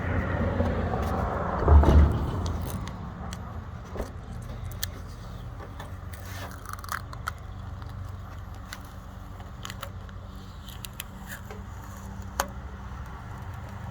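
A loud low thump about two seconds in, then scattered light clicks and rattles over a steady low rumble.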